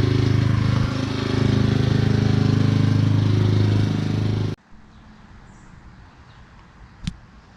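An engine or motor running steadily with an even hum, cutting off abruptly about four and a half seconds in; a single sharp click near the end.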